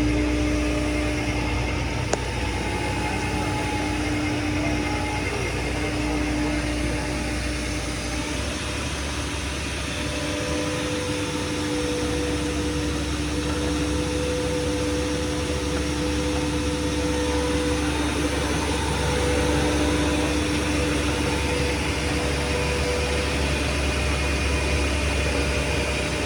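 A vehicle's engine running steadily with a low rumble, with no sudden changes.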